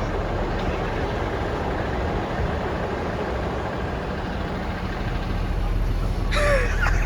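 A Blue Bird Vision bus's engine running steadily in stop-and-go traffic, heard from inside the cabin as an even low rumble.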